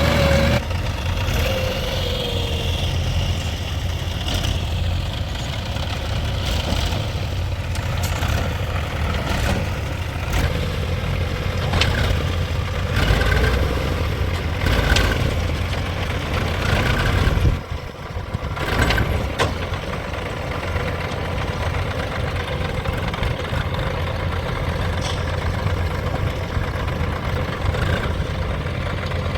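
Diesel engine of a backhoe loader or tractor running steadily at a work site, with a few short knocks and clanks over it.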